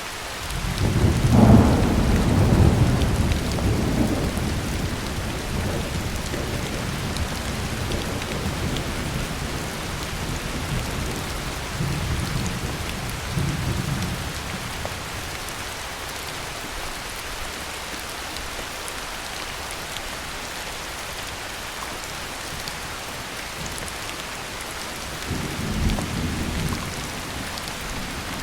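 Heavy rain falling steadily with rolls of thunder. A loud low rumble of thunder builds about a second in and fades away over the next several seconds. Fainter rumbles come around the middle and again near the end.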